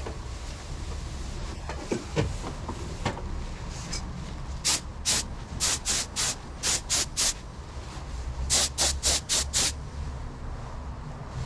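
Air-powered paint spray gun hissing in short bursts as the trigger is pulled and released, about a dozen quick passes in two runs, over a steady low hum.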